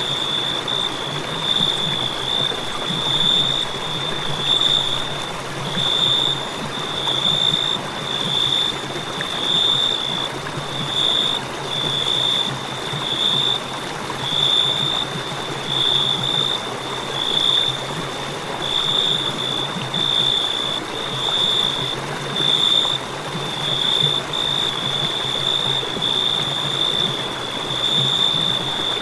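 Crickets chirping: a high, continuous trill that swells and fades every second or two, over a steady rushing hiss.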